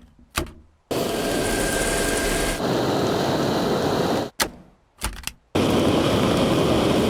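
Cordless vacuum cleaner motor running with a steady whooshing hiss, cut off abruptly just after four seconds and starting again about a second later, with a few short clicks in between.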